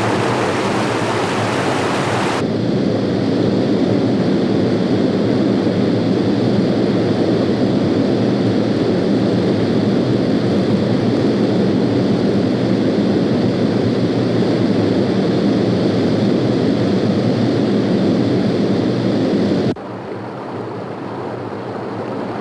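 Rushing water of a mountain stream, a loud, steady rush. It is bright and hissy at first, then deeper and fuller from about two seconds in, and softer near the end, with the sound changing suddenly at each shot change.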